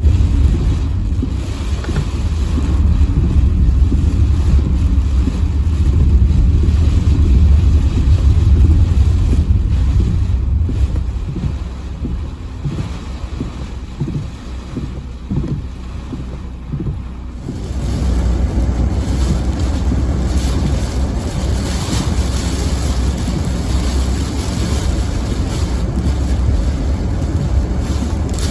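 Typhoon wind buffeting a phone's microphone as a heavy, uneven low rumble. About two-thirds of the way through, a louder rushing hiss of wind joins it.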